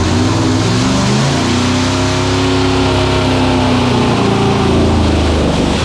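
Loud LS V8 engine revving up over about two seconds, then held steady at high revs, cutting off abruptly at the end.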